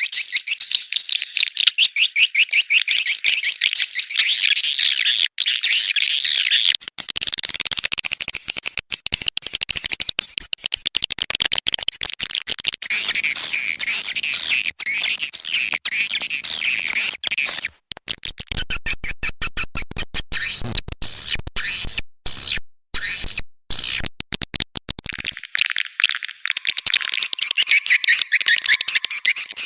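Swiftlet lure call recording: dense, rapid high-pitched twittering of edible-nest swiftlets, looped for drawing the birds into a swiftlet house. From about 7 to 25 seconds in, it is overlaid with fast clicking pulses and cuts out briefly a few times.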